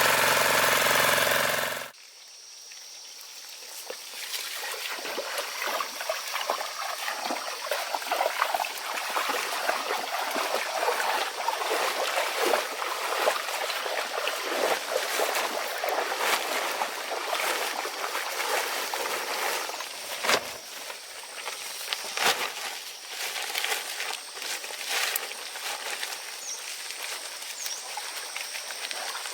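Farm machine's engine running, then cutting off abruptly about two seconds in. After it stops there is a steady crackling, trickling noise with scattered sharp clicks.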